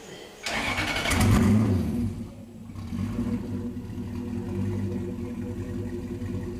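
Turbocharged Lexus 1UZ VVT-i V8 with a single GT35 turbo, revved hard about half a second in, then falling back and settling into a steady idle about two and a half seconds in.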